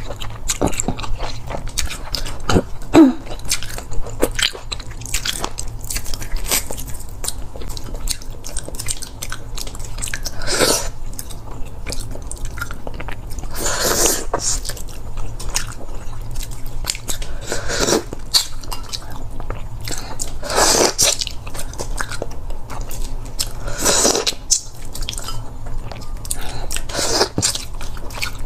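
Close-miked chewing and biting of boiled silkworm pupae: wet, crunchy mouth sounds and clicks, with a louder burst every three to four seconds in the second half.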